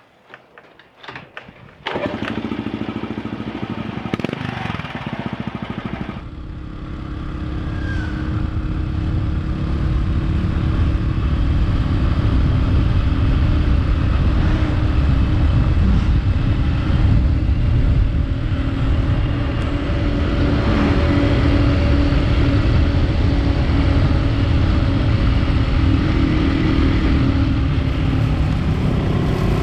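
Honda Cross Cub's small single-cylinder engine, coming in suddenly after a few clicks about two seconds in. It grows louder over the following several seconds as the bike gets under way, then holds steady while riding.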